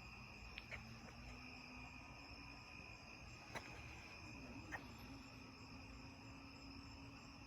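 Faint, steady trilling of crickets at night, with a few soft clicks.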